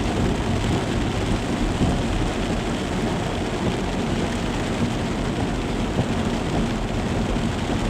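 Heavy cloudburst rain pouring down steadily, a dense even rush with a strong low rumble.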